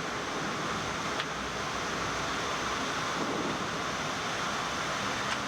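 Steady rushing airflow and systems noise on a Boeing 787 flight deck on final approach, landing gear down and flaps 20, with a faint click about a second in and another near the end.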